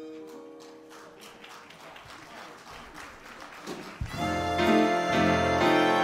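Applause as the previous music dies away, then a big dance band strikes up a 1930s-style tune about four seconds in, loud and full.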